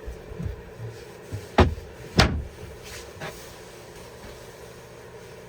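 A few knocks and thuds of camper fittings being moved as part of the camper is converted, the two loudest about a second and a half and two seconds in, over a steady low hum.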